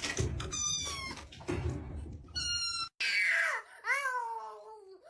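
A cat meowing repeatedly: a few short, high-pitched meows, then after a brief break a longer, drawn-out meow that rises and falls.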